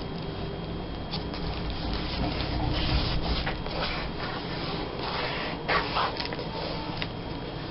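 Paper rustling and scraping under hands as a glued piece of scrapbook paper is rubbed down onto a page, with a couple of sharper crinkles near the end.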